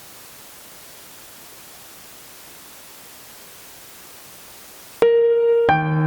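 Steady hiss from a digital keyboard's line output recorded straight into a camera, noise with no music playing. About five seconds in the hiss cuts off and the keyboard's auto-play piano starts: a single held note, then chords.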